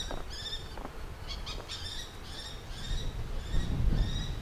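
Songbirds chirping in quick runs of short, high, repeated notes, over a low rumble that swells about three seconds in.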